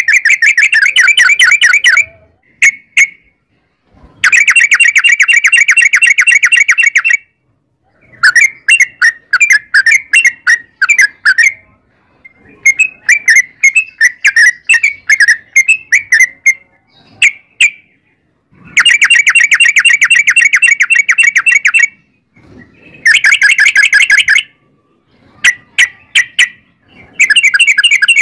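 Yellow-vented bulbul (trucukan) giving long, rapid chattering runs of repeated notes. Dense bursts of a few seconds alternate with looser strings of separate notes, with short pauses between bouts.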